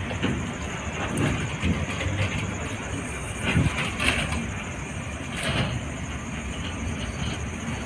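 Goods train of flat wagons rolling past, a steady rumble with irregular knocks and clanks from the wagons, the loudest a little past the middle.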